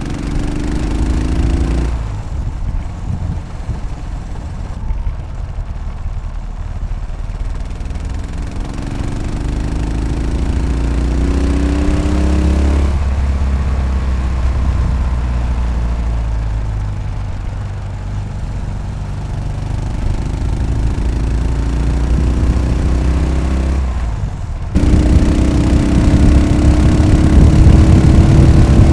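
Yamaha SR500's air-cooled 500 cc single-cylinder four-stroke engine under way, with a drumming beat. It pulls up in pitch several times, easing off around two, thirteen and twenty-four seconds in, and comes back louder near the end.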